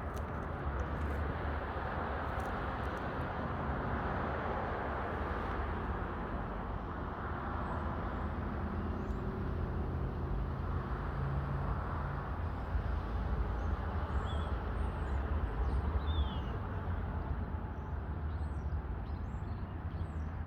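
Steady outdoor background noise, a low rumble with a hiss over it, with a few faint high chirps scattered through. It cuts off abruptly at the end.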